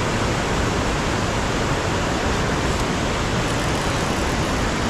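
Steady rush of river water pouring over a dam.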